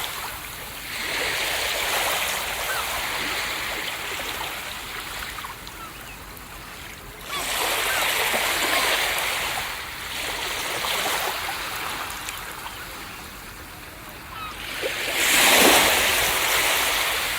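Ocean surf breaking on a beach and washing back, in four swelling surges a few seconds apart; the loudest break comes near the end.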